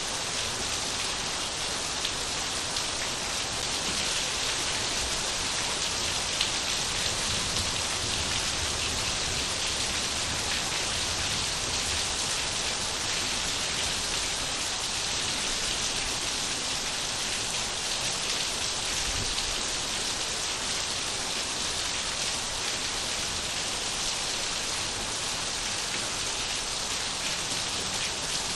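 Steady rain falling and pattering on surfaces, an even hiss of drops with no letup.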